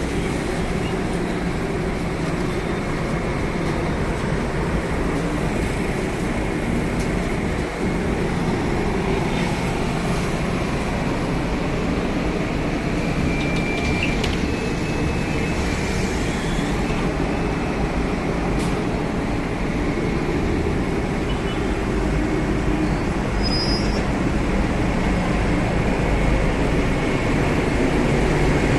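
Scania K250UB city bus running, a steady low engine rumble with road noise, a few faint short squeaks or rattles midway, and getting slightly louder near the end.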